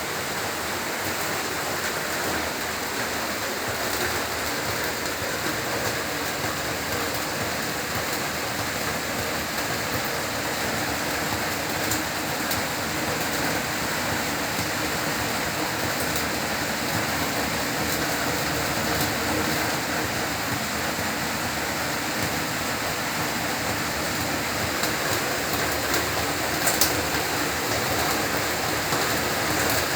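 Heavy rain falling steadily, a dense even hiss with scattered drips and patters on hard surfaces, and one sharp tap near the end.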